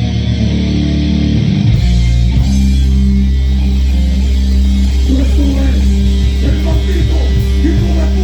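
Live heavy rock band playing loudly: distorted electric guitars and bass holding low chords, which change a little under two seconds in, with a higher melodic line bending over them from about halfway on.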